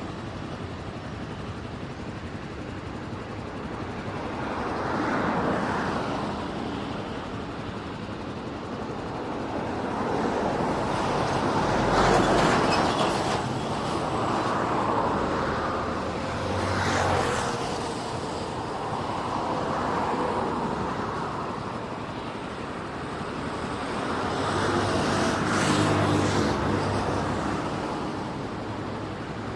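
Boeing 737-400's CFM56-3 turbofan engines at takeoff power: a loud jet noise that swells and fades several times.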